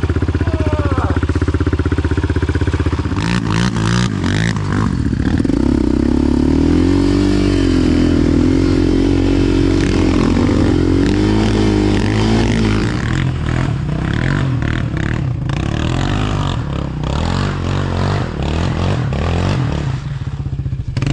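ATV engine running, its revs rising and falling in waves through the middle, with clattering knocks over it at the start and through the second half.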